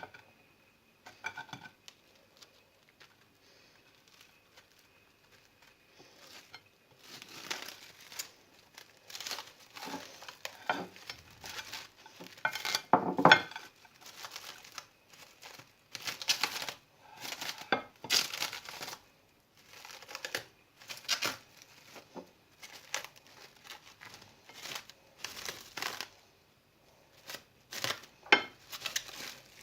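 Plastic or paper food packaging crinkling and rustling as it is handled, in irregular bursts every second or two that start about seven seconds in, with a dull knock among the loudest of them.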